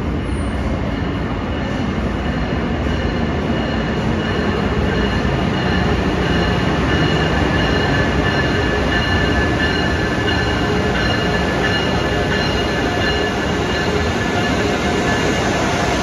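A first-generation Amtrak Acela Express train pulling into the station and rolling slowly past along the platform: a steady rumble with several high, steady squealing tones on top, growing a little louder as the power car comes alongside.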